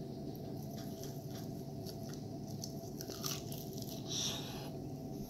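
A man biting into and chewing a hot, sticky honey-garlic pork spare rib: soft wet clicks and smacks of mouth and meat, with a short hiss about four seconds in.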